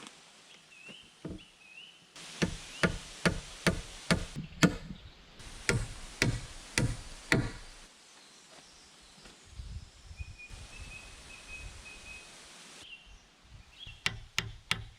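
A run of heavy tool blows on timber, about two to three a second, from a log-cabin build, which stops after several seconds and starts again near the end. Birds chirp in the background.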